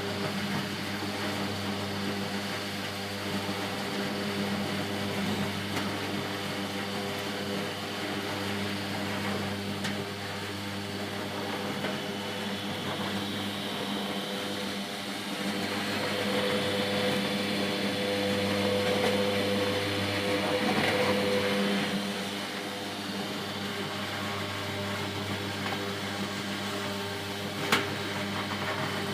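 Electric motor on a țuică brandy boiler running with a steady hum, growing louder and rougher for several seconds past the middle, with a single sharp click near the end.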